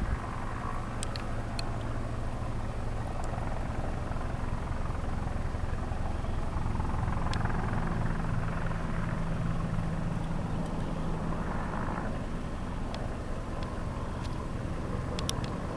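Distant CF CH-146 Griffon helicopter heard from about a kilometre off: a steady low drone, with a steady tone that holds for a few seconds in the middle.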